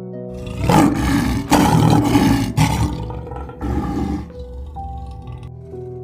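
Lion roaring in several loud bursts during the first half, with a shorter one about four seconds in, over background music with steady held notes.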